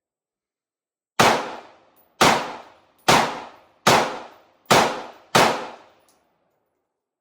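Six rifle shots from a 5.56 AR-15 fired at a steady pace, under a second apart, each sharp crack trailing off in a short echo.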